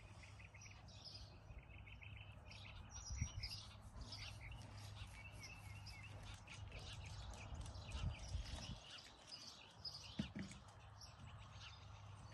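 Wild birds chirping and calling throughout, many short high calls, over a steady low hum.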